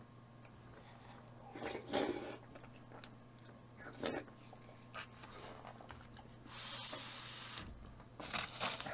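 Soft eating noises: a few brief chewing and mouth sounds, with a short breathy hiss of about a second near seven seconds in, over a steady low hum.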